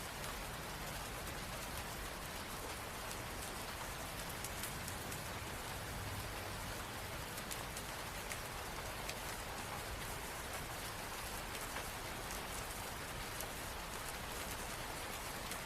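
Steady rain, a constant hiss with fine pattering of drops.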